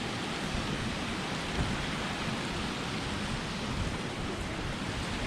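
Steady rush of falling water from a creek waterfall, an even hiss with a low rumble under it.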